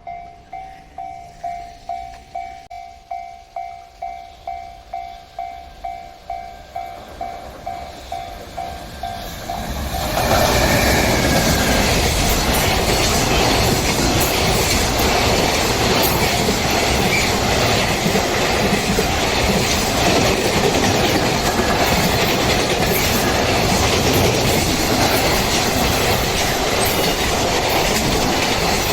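Level-crossing alarm ringing in a steady pulse about twice a second; about ten seconds in, a train passes through the crossing, much louder, its wheels clattering over the rail joints and drowning out the alarm.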